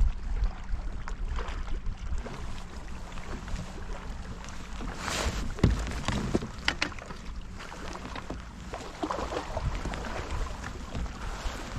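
Wind rumbling on the microphone over water lapping at a fishing kayak, with a few sharp knocks and splashes about halfway through.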